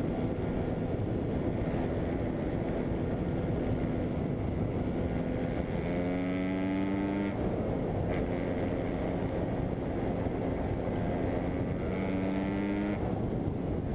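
Dirt bike engine running at steady revs under heavy wind noise, revving up briefly twice, about six seconds in and again near the end.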